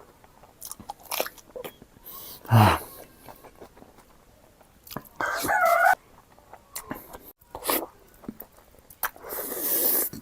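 Close-miked eating: biting and chewing food, with scattered small clicks and a few louder crunchy bites.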